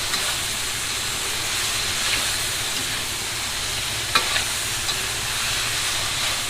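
Diced pork and shiitake mushrooms sizzling steadily in a hot pan as they are stir-fried, with a few sharp clicks of the spatula against the pan, the loudest about four seconds in.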